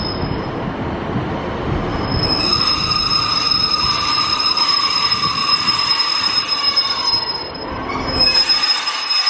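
Passenger train moving on the rails with a high, steady metallic squeal over a low rumble. The rumble drops away shortly before the end.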